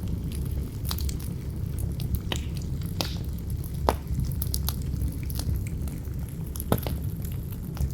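Campfire crackling, with irregular sharp pops of burning wood, two louder ones about four seconds in and just before seven seconds. Under it runs a steady low rumble of wind.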